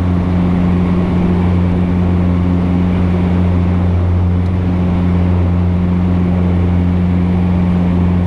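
Steady drone of a 1954 Cessna 170B's piston engine and propeller in flight, holding one even pitch throughout.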